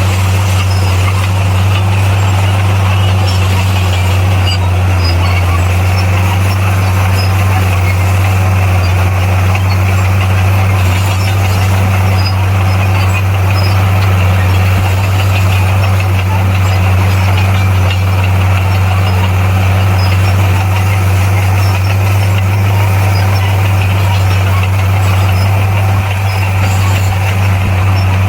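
Heavy diesel engine of earthmoving machinery running steadily at a constant speed, with a deep, even drone.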